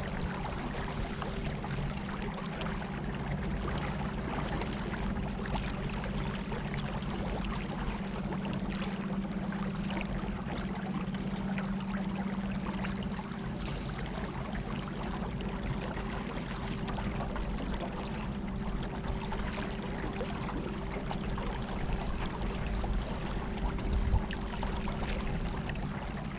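Water rushing and splashing along a small boat's hull as it moves on the river, over a steady motor hum. There is a single knock near the end.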